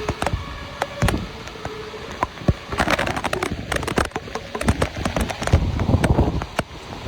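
Heavy storm rain spattering hard on surfaces close by, with many sharp, irregular drop impacts and uneven low rumbling underneath.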